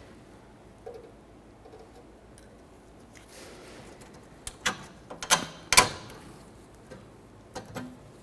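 Metal clicks and clinks as a brake spring is hooked into place behind the rotor, with a cluster of sharp snaps about five to six seconds in and two more near the end.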